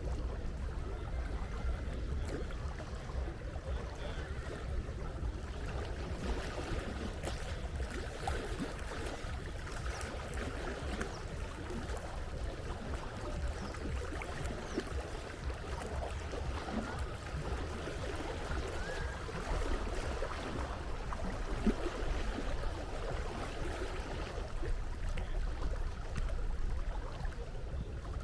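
Sea water lapping and splashing, with many small crackles and a steady low rumble underneath.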